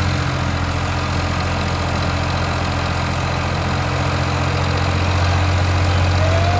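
Tractor diesel engine running steadily with an even low hum.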